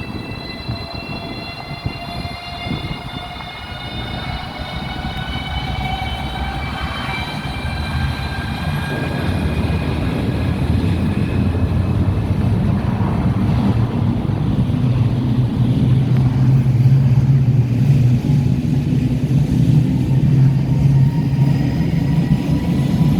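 Lastochka electric train (Siemens Desiro RUS) on the move: its traction drive whines in several high tones that drift slowly down over the first half. From about nine seconds in, a low rail rumble builds and grows steadily louder.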